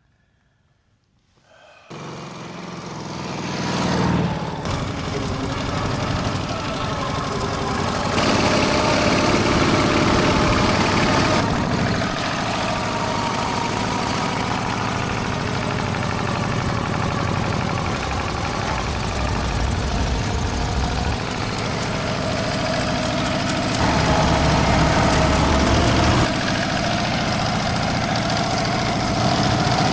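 An old sidecar motorcycle's engine running. It comes in suddenly about two seconds in, swells to a brief peak, then runs steadily with a few shifts in level and pitch.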